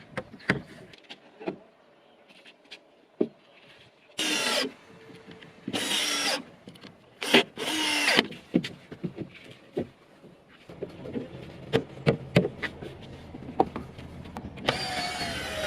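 Scattered knocks and scraping of tools at work, with four short bursts of a whirring power tool about halfway through. A steady low rumble builds toward the end.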